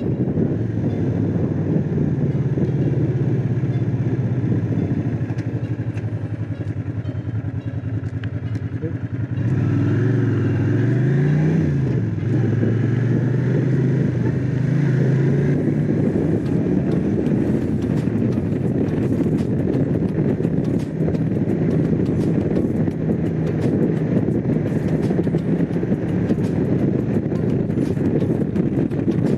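Honda CX500's 90-degree V-twin engine running on the road at steady speed. About ten seconds in it gets louder and its pitch rises and then falls before settling back to a steady tone.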